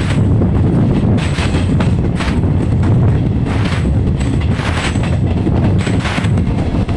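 Passenger train running at speed: a loud, continuous low rumble with irregular sharp clatters, every half second to a second, of the wheels on the track.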